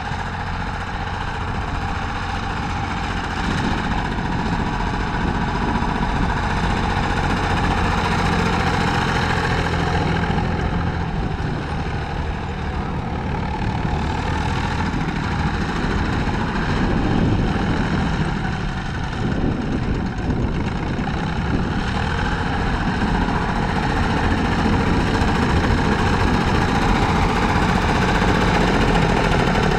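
Tractor engine running steadily, its level swelling and dipping a little and growing louder toward the end.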